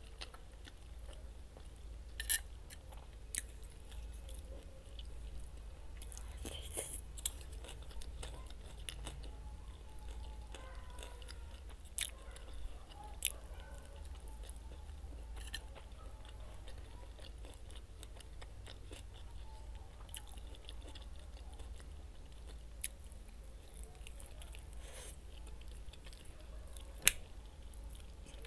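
Close-miked chewing and biting of roast chicken and bread, with scattered sharp wet mouth clicks and smacks and the odd crunch.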